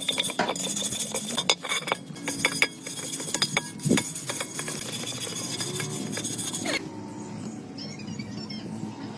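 Metal clinking and tapping, many short sharp clicks, over a steady hiss that cuts off about seven seconds in.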